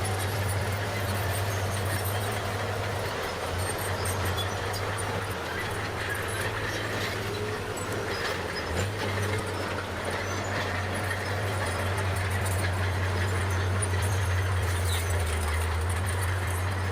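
Bulldozer's diesel engine running steadily with a low drone, with light clattering from the machine over it.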